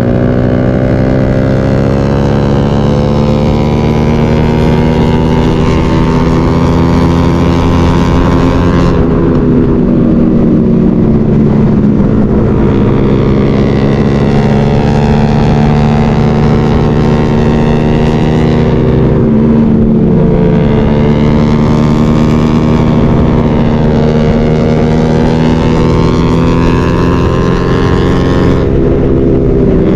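Motorcycle engine heard from the rider's own bike, pulling hard with its pitch climbing steadily for several seconds. The note drops sharply about nine, nineteen and twenty-nine seconds in, as the throttle closes for a gear change.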